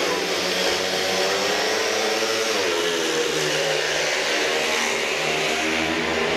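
Four speedway bikes, 500 cc single-cylinder methanol engines, at full throttle as they race away from the start gate into the first bend. Several engine notes overlap and hold steady, with one rising about two seconds in.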